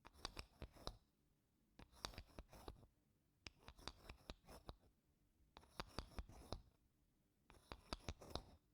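Wooden spoon gently scraping across wooden blocks: five short bursts of quick scratching strokes, about two seconds apart.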